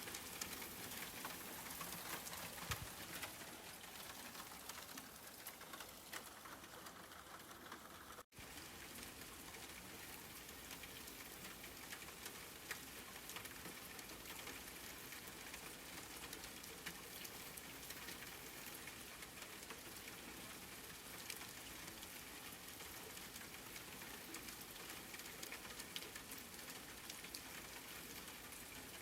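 Steady rain falling, an even hiss with scattered drop ticks. The sound briefly cuts out about eight seconds in.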